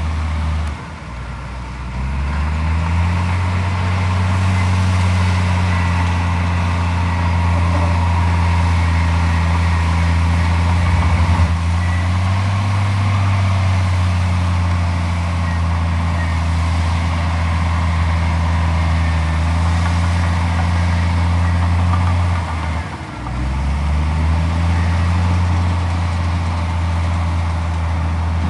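Heavy diesel engine of earthmoving machinery running steadily at high revs. About a second in, and again near the end, the revs drop briefly and climb back up over a second or two.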